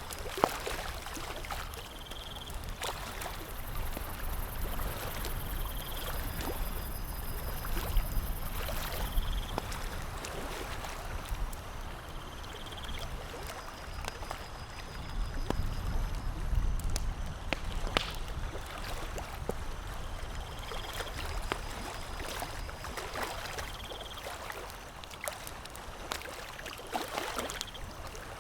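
Campfire crackling, with sharp pops scattered irregularly, over a steady wash of lapping water and a low rumble. Short high tones recur every few seconds.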